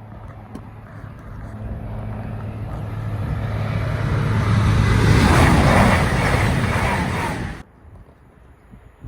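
A train approaching and passing at speed, a low hum building into a loud rush of wheels and air, which cuts off suddenly about two-thirds of the way through.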